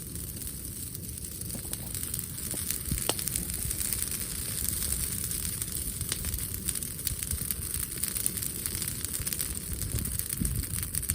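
Brushwood bonfire burning and crackling, with scattered sharp pops from the burning wood.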